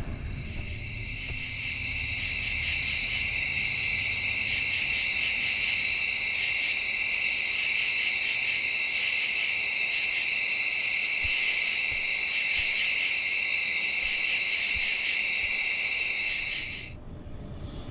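Insect chorus: a steady high-pitched buzzing with a rhythmic chirping pulsing over it, which stops abruptly near the end.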